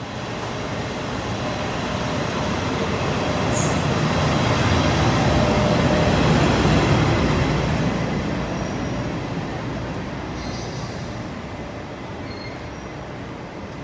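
A Taiwan Railway train running past on the platform track: the rumble of its wheels and motors swells to a peak about halfway through, then fades as it pulls away, with a faint wheel squeal near the loudest point.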